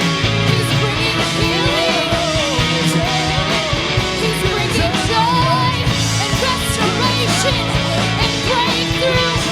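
Live worship band playing, with electric guitar and steady bass and drums, and a vocal melody line over it.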